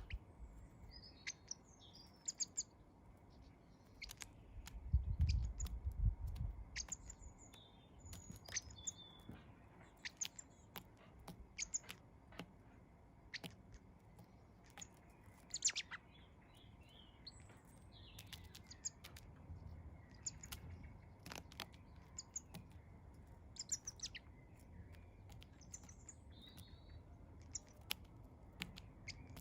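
Garden birds chirping and twittering at a feeder: many short, high chirps and calls come and go, with scattered sharp clicks. A low rumble rises about five seconds in.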